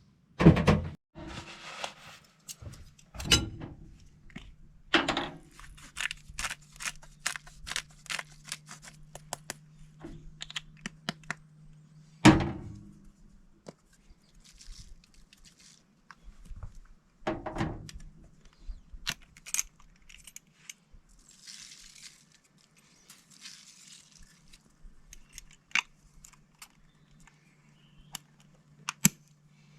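A series of sharp knocks and thuds, five of them loud, with light clattering and clicking of small hard objects being handled in between. A steady low hum runs underneath from about five seconds in.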